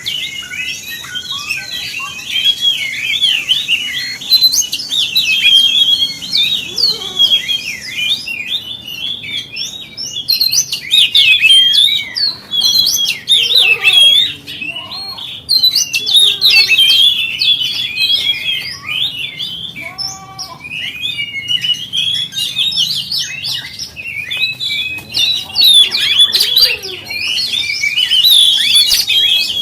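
Oriental magpie-robin (kacer) singing a fast, unbroken run of varied whistles and chirps: a 'pancingan' song used to provoke other magpie-robins into singing.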